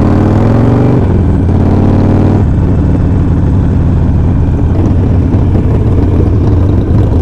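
Harley-Davidson Sportster V-twin engine accelerating, its pitch rising over the first second, then changing twice before settling into a steady cruise with wind rush over the microphone.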